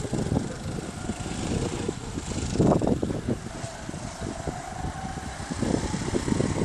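Go-kart engines running on the track, with a faint engine note rising and falling in the middle and louder surges about a third of the way in and near the end.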